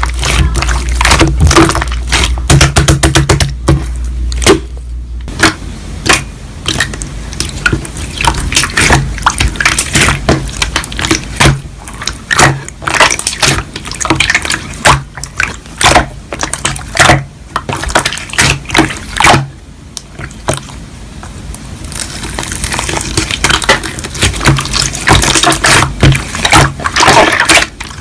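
Slime being squished and pressed by hand: a steady run of wet, sticky pops and clicks.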